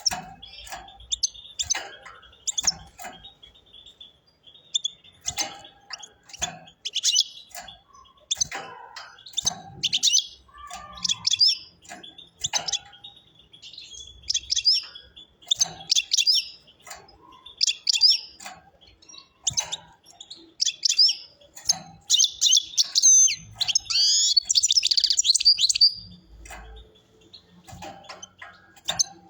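European goldfinch singing: bursts of rapid twittering phrases every second or two, run together into a long unbroken stretch of song near the end.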